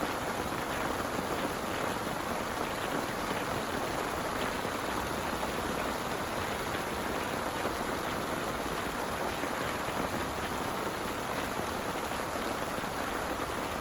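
Heavy rain falling steadily, a dense even hiss with many fine drop patters on a surface.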